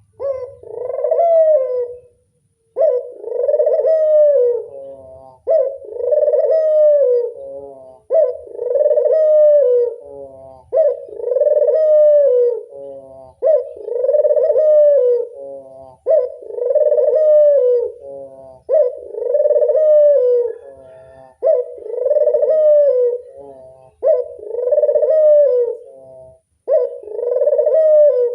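Burung puter (Barbary or ringneck dove) cooing over and over in a steady series of about eleven coos, one roughly every two and a half seconds. Each coo is a low call about two seconds long that rises and falls.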